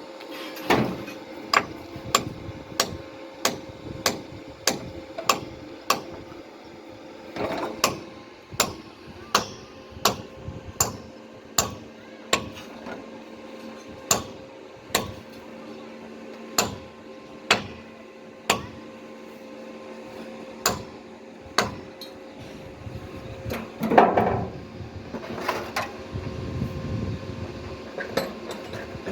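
Repeated sharp knocks, roughly one every two-thirds of a second with a few short pauses, like steady hammering. A steady low hum runs under them, and a louder rustling burst comes a little after the middle.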